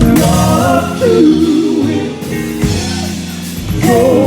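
Live gospel music: voices singing over a band with drums, kicking in loudly right at the start.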